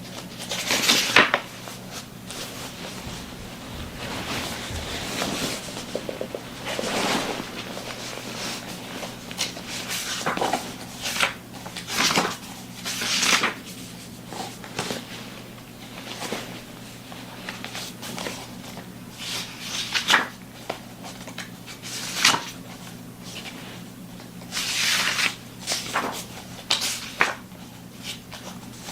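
Irregular rustling swishes and small knocks of objects being handled close to the microphone, over a steady low hum.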